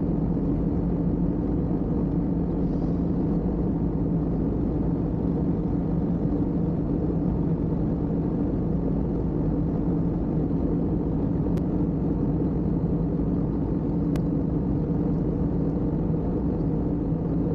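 Steady airliner cabin noise in flight: an even, unbroken low roar and hum of engines and airflow.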